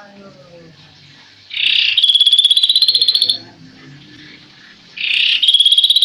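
Kaso-kaso bird calling: two loud, rapid rattling trills of about two seconds each, starting about a second and a half in and again about five seconds in. Each opens with a harsh burst and then rises slightly in pitch.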